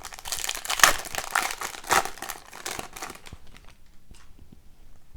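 Crinkling and rustling of a foil hockey-card pack wrapper being handled, for about three seconds, with the sharpest crackles around the first and second seconds, then dying away.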